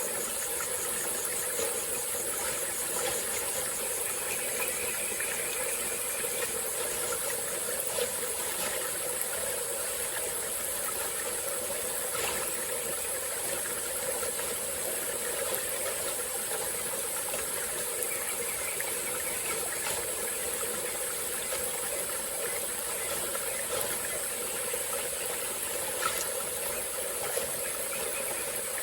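Small forest stream running steadily over its bed, a continuous burbling rush of water, with a steady high-pitched insect chorus above it.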